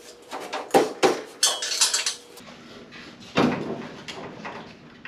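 Sheet-metal clanks and knocks from the car body as the replacement roof panel is worked into place. There are several in the first two seconds, some with a short metallic ring, and a louder knock about three and a half seconds in, followed by a few lighter ones.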